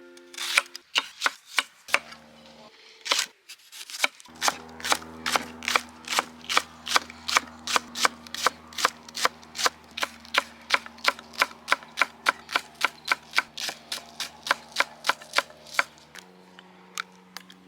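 Knife chopping on a cutting board in quick, even strokes, about three a second, with a few scattered strokes at the start and the end. Soft background music with held chords underneath.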